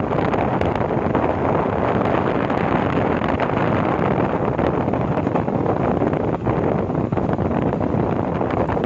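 Steady rush of wind buffeting the microphone over the running noise of a moving train, heard from its open doorway.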